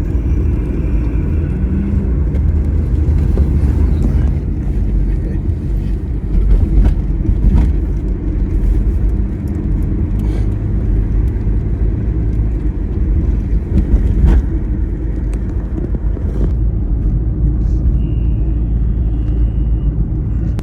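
Car driving along a road: a steady low rumble of engine and road noise, with occasional light knocks.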